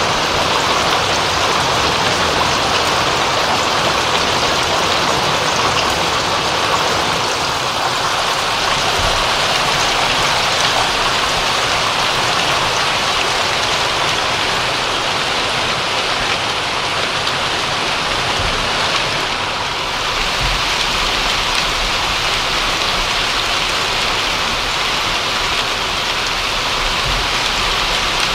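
Steady rain falling, a dense even hiss of raindrops with no single drops standing out.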